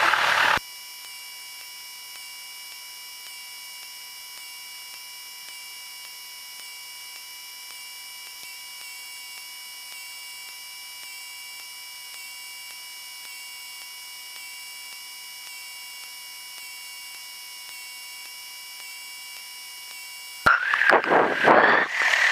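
Steady electrical hum: several fixed high tones over a light hiss, with no low sound at all. A voice comes in briefly at the very start and again near the end.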